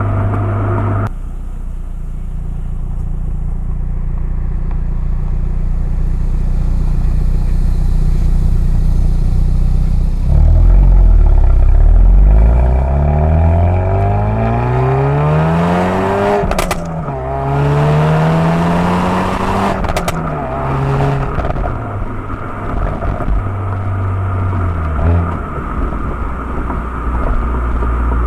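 2019 Hyundai Veloster N's turbocharged 2.0-litre four-cylinder exhaust, heard from a microphone on the car: running steadily, then from about ten seconds in climbing in pitch under hard acceleration. Sharp cracks come at two gear changes, where the pitch dips briefly, before the note falls back and settles to a steady cruise.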